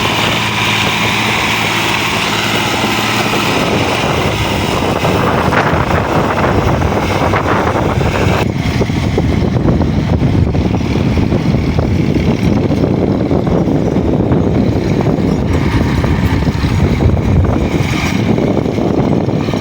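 Diesel tractor engine running under load, pulling a loaded sugarcane trolley along the road. Its steady note turns into a rougher, deeper rumble about eight seconds in.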